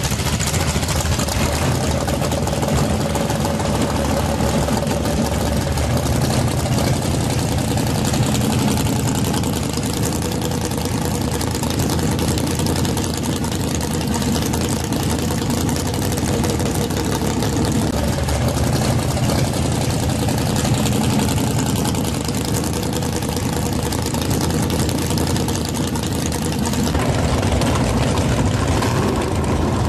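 Ford Customline drag car's engine idling steadily while the car rolls slowly; the sound shifts slightly near the end.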